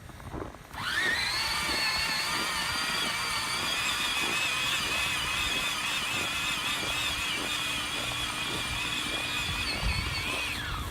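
The 775 electric motors and gear drive of a 24V Peg Perego John Deere ride-on toy tractor whining, rising in pitch as they spin up about a second in, then running steadily at high pitch and winding down at the very end.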